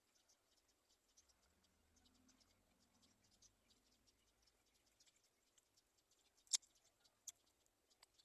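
Near silence with faint, scattered high ticks, and two sharper clicks about six and a half and seven seconds in.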